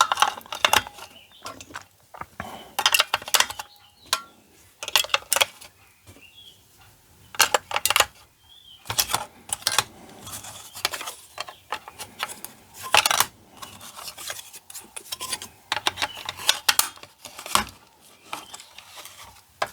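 Batteries being pushed into a blood pressure monitor's battery compartment and the plastic unit handled: a string of short clicks and small metallic clatters with quiet gaps between them.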